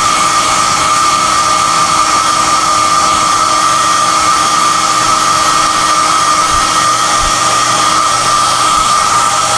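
SOUNATE high-airflow hair dryer running steadily: a loud rush of air with a steady high-pitched whine over it.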